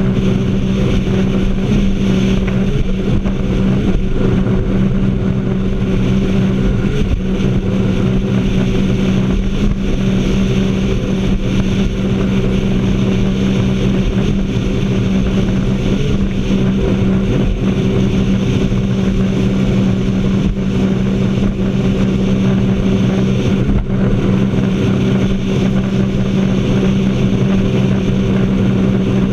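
Jet ski engine running at a steady, even pitch under a constant rushing noise, as at a steady cruising speed.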